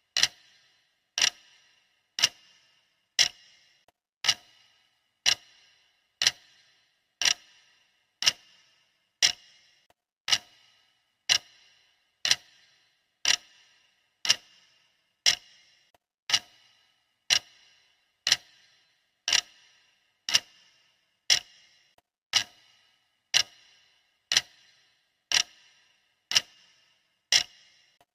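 Clock ticking sound of a countdown timer: sharp, even ticks once a second, each with a brief high ring.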